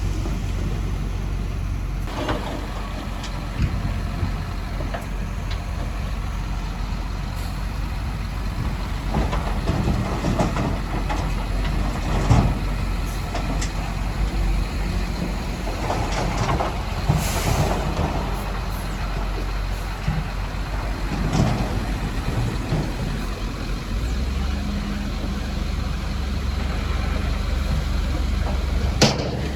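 Heavy diesel earthmoving machinery running steadily, with scattered clanks and knocks and a short hiss about halfway through and another at the end. The low engine rumble grows heavier about three-quarters of the way through.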